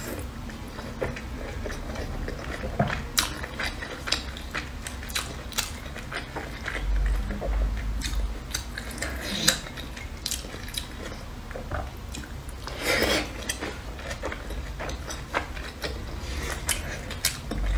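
Close-miked chewing and biting of a soft steamed dumpling, with many short wet mouth clicks throughout and one longer, louder burst about thirteen seconds in.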